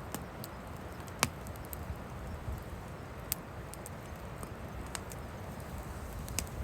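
Wood fire crackling, with scattered sharp pops of burning firewood, the loudest about a second in. A low rumble of wind on the microphone runs underneath.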